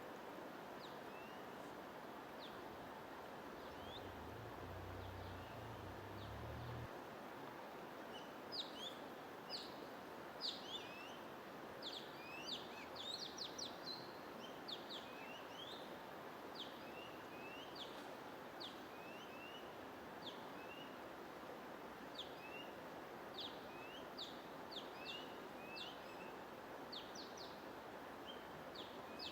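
Small birds chirping in short, quick falling notes, a few at first and busier from about eight seconds in, over a steady white-noise hiss. A brief low rumble sounds a few seconds in.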